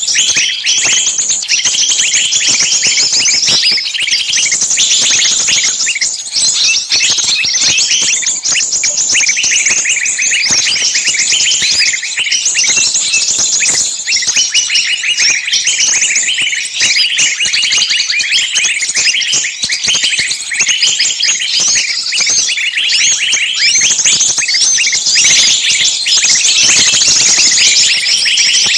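A dense, continuous chorus of rapid high chirps, like many small birds calling at once.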